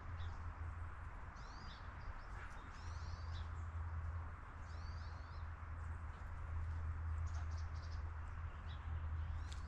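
Small birds chirping in short, quick, curved notes, several times over, above a steady low hum that runs throughout; a few sharp clicks come near the end.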